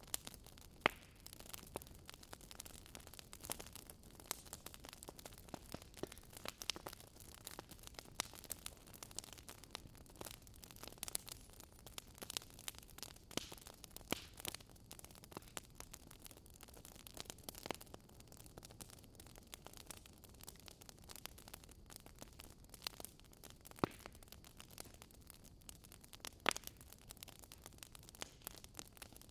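Wood fire crackling: many small sharp pops and snaps at irregular intervals, with a few louder pops, over a faint steady hiss.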